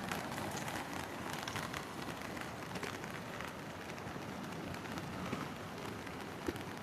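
Steady rush of water, an even hiss dense with fine ticks.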